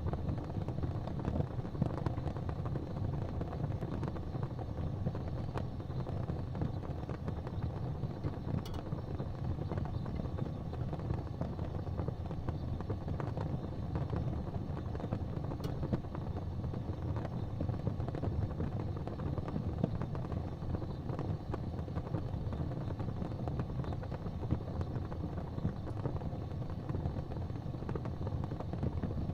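Fire burning in a fireplace: a steady low rumble with a few faint pops.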